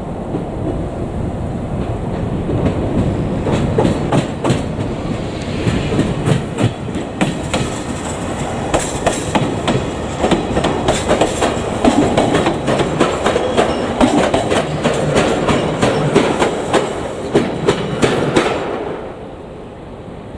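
JR Kyushu electric train passing close by, its wheels clattering over the rail joints in a long, dense run of clicks over a steady rumble. The sound drops away near the end as the train clears.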